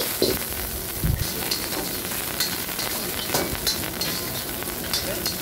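Chopped onion, galangal, celery and lemongrass sizzling in hot oil in a wok as they are stir-fried, a steady sizzle broken by a few short scrapes and knocks of the stirring.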